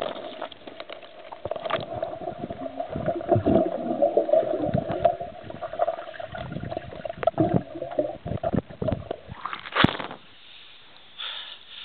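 Water sloshing and splashing in a hot-spring soaking tub as someone gets in, over a steady hum that stops about nine seconds in; a sharp knock near the end.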